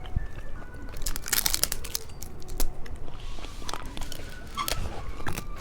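Candy being crunched between the teeth, mixed with crinkling of plastic candy wrappers, in a run of sharp clicks and crackles that is densest a little over a second in.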